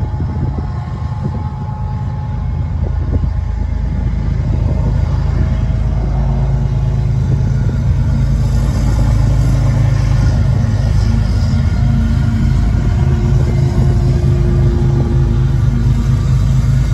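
Diesel freight locomotives approaching and passing at track speed. A deep, steady engine drone grows louder over the first half and then holds, with the hiss of wheels on rail as the lead units go by.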